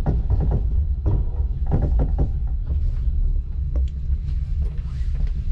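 Train running, heard from inside the carriage: a steady low rumble with irregular short clatters of the wheels and car.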